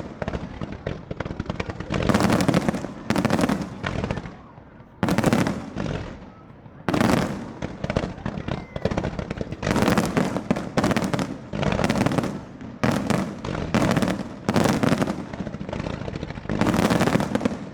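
Fireworks display bursting: a rapid series of loud bangs, about one a second, each with a short fading tail and crackle between them.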